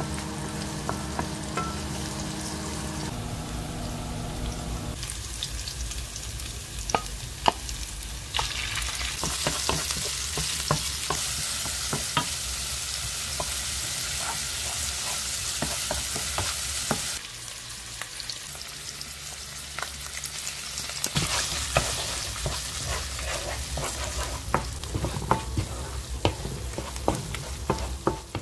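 Oil sizzling in a nonstick wok as garlic, green onions and ground meat are stir-fried over high heat, with a wooden spatula scraping and knocking against the pan. The sizzle changes in strength several times as the shots change.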